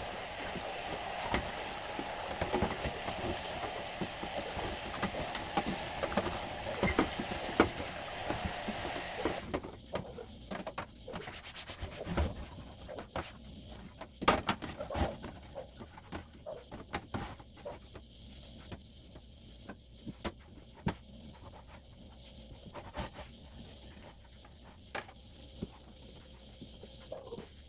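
Refrigerator parts being washed and scrubbed by hand: a steady rushing noise that cuts off about a third of the way in, then scattered knocks, clicks and rubbing.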